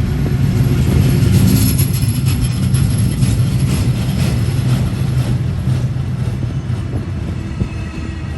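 A train passing on the tracks: a steady low rumble of the running gear with a run of sharp wheel clicks, loudest about a second in and then slowly fading.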